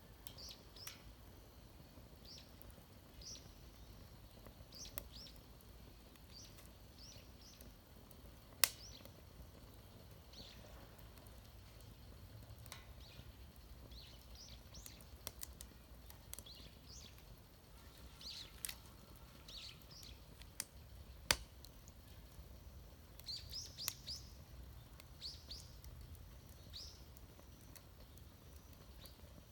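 Small birds chirping with short repeated calls throughout, over a faint outdoor background, with a few sharp isolated clicks, the loudest about a third and two-thirds of the way through.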